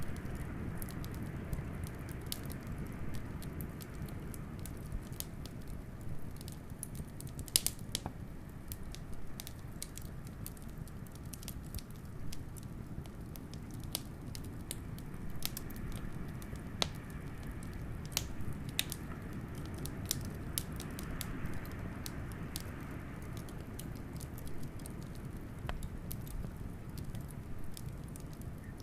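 Fire crackling with scattered sharp pops over a steady low rumble of blizzard wind, which swells into a faint howl around the middle.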